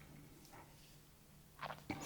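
Near silence: faint room tone with a low steady hum, and a brief soft sound near the end.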